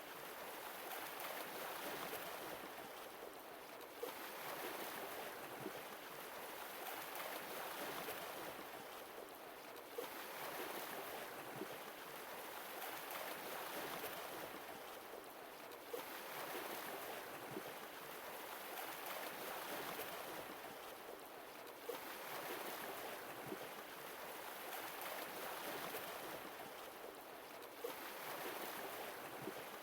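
Sea waves washing ashore, a steady hiss that swells and ebbs in regular surges about every six seconds, each surge marked by a brief click.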